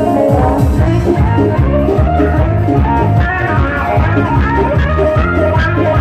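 Electric bağlama playing a fast improvised halay melody in quick plucked runs over a steady bass and drum beat.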